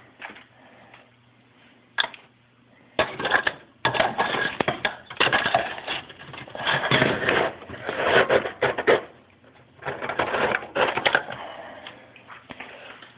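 Ice being broken up with a hammer inside a refrigerator: a single sharp knock about two seconds in, then about eight seconds of rapid, irregular strikes coming in clusters, before the strikes thin out near the end.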